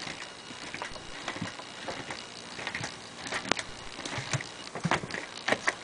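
Irregular footsteps with light knocks and clicks inside a stripped-out airliner cabin, coming more often in the second half.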